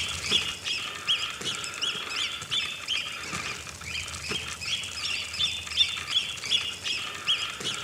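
Goslings peeping: many short, high chirping calls overlapping, several a second.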